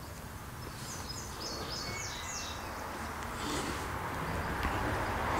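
A bird sings a quick run of about six short, falling chirps over steady outdoor background noise, which grows a little louder in the second half.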